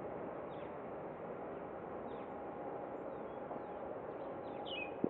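Outdoor ambience: a steady wash of background noise with a few short, falling bird chirps, about four in all, the clearest near the end, then a single click just before the end.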